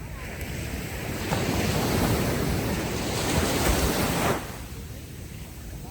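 Ocean wave breaking and washing up the beach: the rush of surf builds over the first second or so, is loudest for about three seconds, then drops off suddenly to a softer steady wash.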